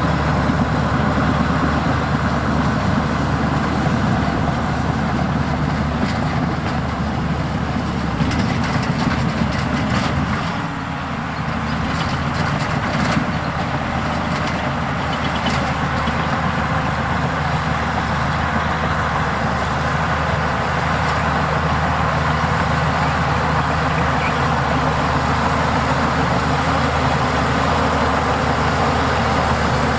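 Heavy diesel earthmoving machinery running steadily, with a brief drop in engine sound about ten seconds in and scattered metallic clanks and knocks in the first half.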